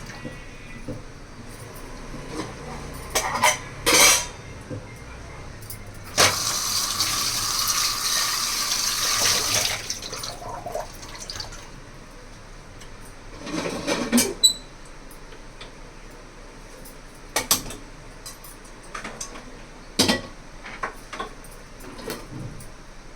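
Kitchen tap running for about four seconds, with scattered clinks and knocks of dishes and utensils before and after it.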